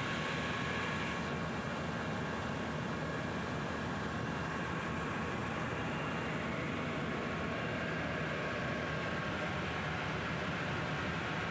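Helicopter running steadily in flight: constant engine and rotor noise with an even rumble and a steady high whine.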